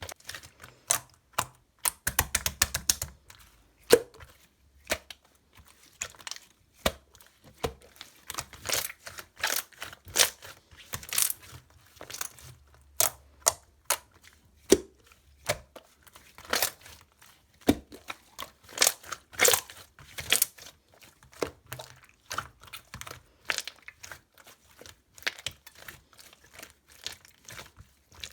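Chewy, jelly-textured slime squished and stretched by hand, giving irregular sticky clicks and pops, several a second with quick clusters of crackles.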